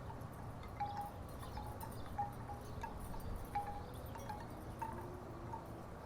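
Wooden tiki wind chimes knocking together in the breeze: about a dozen short, hollow clacks at irregular intervals over a steady low wind rush.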